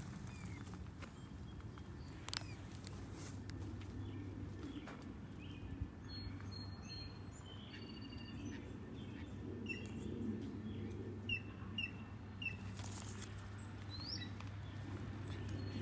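Small birds chirping in short, repeated high calls, most of them in the middle and latter part, over a steady low background hum; a single sharp click about two seconds in.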